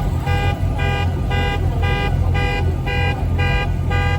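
Car horn beeping in an even, repeating pattern about twice a second, as a car alarm does, over a steady low rumble of car engines running.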